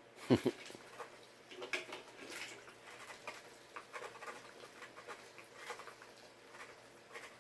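Young mallard ducks feeding from a tub of water and food, a run of small irregular clicks, snaps and patters from their bills dabbling, with one louder knock near the start.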